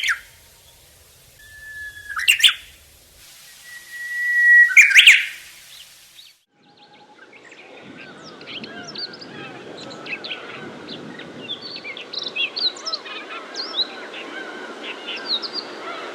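Two rising sweeps, each ending in a loud hit, then from about six seconds in a dense chorus of many small birds chirping and calling over one another.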